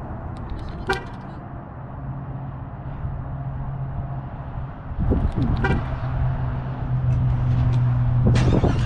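2021 Camaro SS's 6.2-litre V8 idling steadily on its old exhaust, the level building slightly toward the end. Two brief higher-pitched sounds cut in, about a second in and around the middle.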